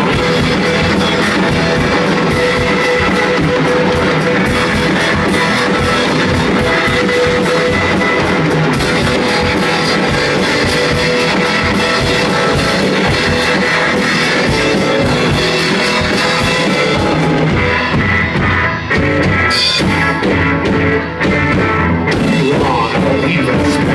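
Live rock band playing an instrumental passage with electric guitar and drum kit, loud and continuous.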